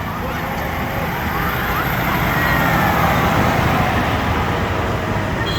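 Tractor and vehicle engines running as a parade passes, with a siren-like wail rising and falling over the engine rumble about two seconds in.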